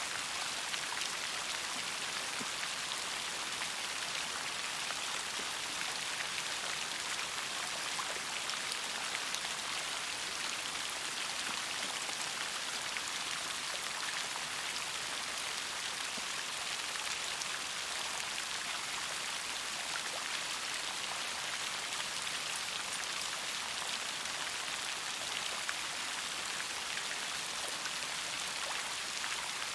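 Steady rain falling, an even patter of many drops hitting a surface, with occasional small, sharper drop ticks.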